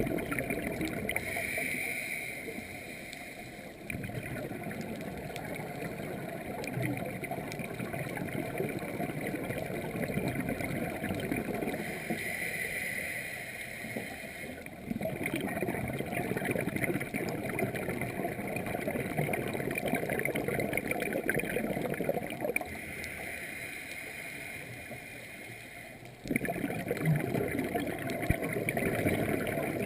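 Scuba diver breathing through a regulator underwater: three slow breath cycles, each a quieter hissing inhale followed by a longer stretch of bubbling exhaust bubbles.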